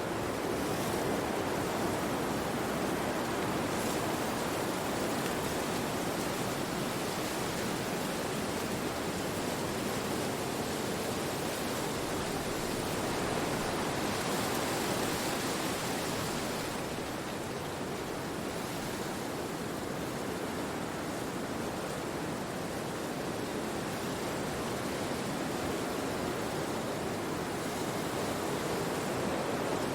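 Wind blowing through forest trees: a steady hiss of moving leaves and branches that swells and eases, strongest about halfway through.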